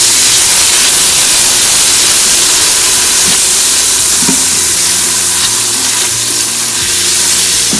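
Spices and ginger-garlic paste frying in hot oil in an Instant Pot's steel inner pot, a loud steady sizzle as the masala is stirred.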